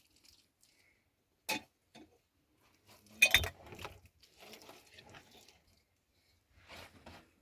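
A few clinks and knocks of hard objects being handled: a sharp one about one and a half seconds in, the loudest about three seconds in, then softer rustling and knocking.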